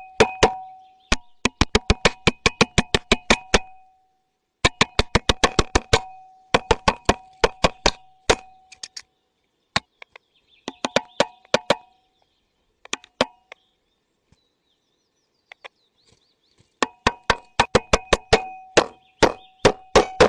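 Rapid hollow knocking in runs of quick strikes, each with a short ringing note, broken by brief pauses and sparser around the middle.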